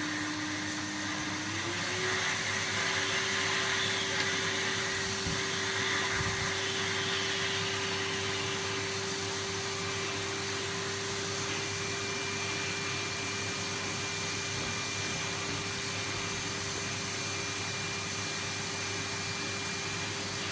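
Vacuum cleaner running and drawing air through a homemade dust-extractor bin. Its motor pitch steps up about two seconds in, then holds steady over a hiss of rushing air.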